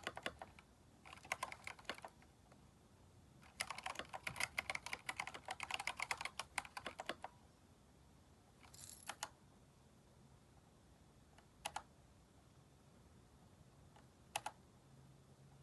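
Typing on a Keychron K4 mechanical keyboard fitted with aftermarket keycaps. A short run of keystrokes, then a longer fast run, then only a few single key presses spaced seconds apart.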